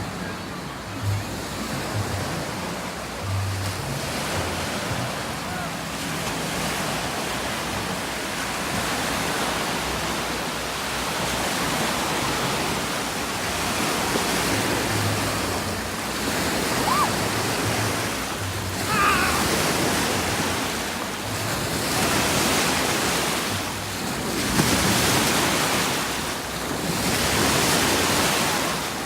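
Steady rush of splashing water with wind buffeting the microphone, swelling and easing, typical of riding down a water-park raft slide.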